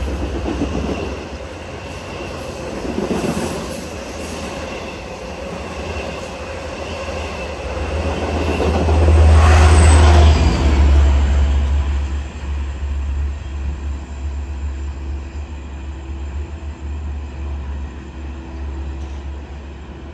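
Long Island Rail Road train running through the station, its wheels rumbling on the rails and a brief high wheel squeal near the middle. The rumble grows loudest about halfway through, then slowly fades.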